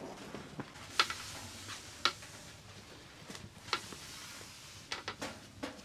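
Heavy rain falling with a steady hiss, with several sharp ticks and knocks scattered through it, about seven in all.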